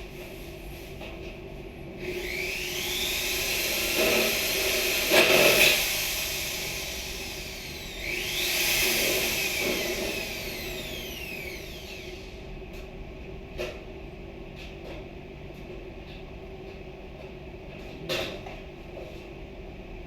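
A power tool's motor speeding up and winding down, twice, each run lasting about four seconds, followed by a couple of sharp knocks.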